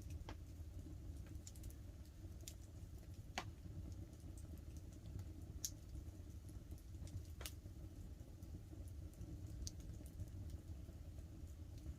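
Wood campfire crackling, with scattered sharp pops, the loudest a few seconds apart, over a low steady rumble.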